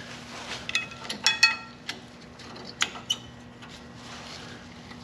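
Small metal parts handled, clinking together with short high ringing tones. There is a cluster of clinks about a second in and a few lighter clicks around the third second.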